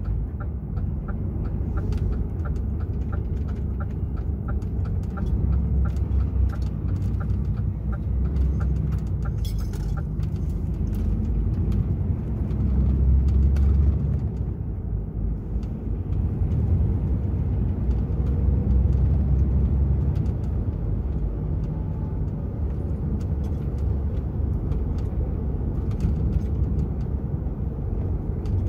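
DAF XF 480 truck driving, its PACCAR MX-13 six-cylinder diesel and the road making a steady low rumble that swells and eases. For the first ten seconds or so a light tick repeats about twice a second, then stops; near the end a faint rising whine comes in as the truck pulls harder.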